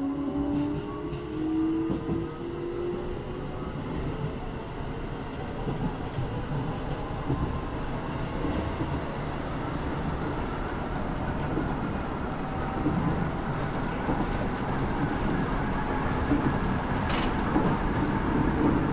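Keisei 3700-series electric train running, heard from inside the car: a steady rumble of wheels on rail that slowly grows louder as the train gathers speed, with a faint whine from its Toyo GTO-VVVF inverter rising in pitch. A single sharp click comes near the end.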